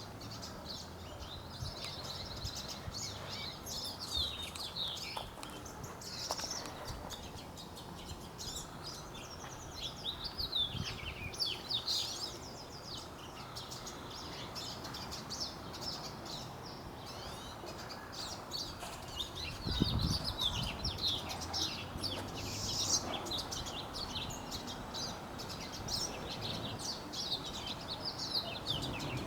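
Many small songbirds singing and chirping at once from several directions, a continuous chorus of overlapping short chirps and trills. A brief low thump about twenty seconds in.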